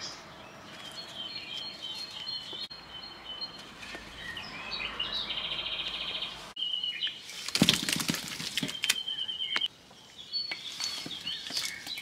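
Small birds chirping and trilling, with a cluster of sharp knocks and clatter about seven to nine seconds in, the loudest sound.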